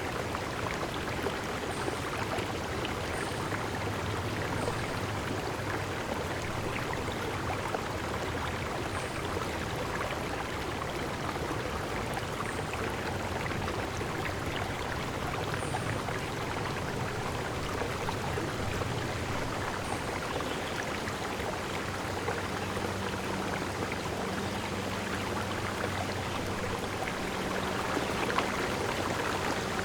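Steady rush of falling water from a stream or waterfall, with brief high bird chirps every few seconds.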